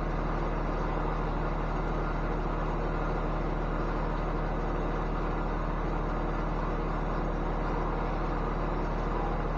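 Steady, unchanging hum of an engine or motor running at a constant speed.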